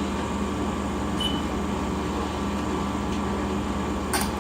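Steady low hum of a houseboat's engine running, with a short click near the end.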